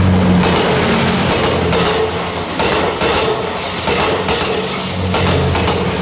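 JR West Series 87 Twilight Express Mizukaze diesel-hybrid train passing close by: a steady engine hum over loud wheel and rail noise with repeated clacks.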